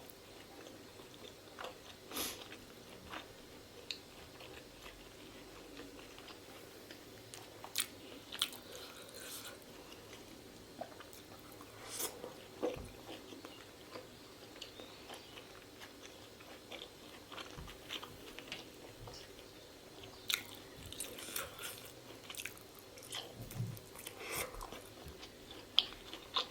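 Close-miked chewing and biting of pork momos (dumplings), with scattered short wet clicks and mouth smacks, busier toward the end.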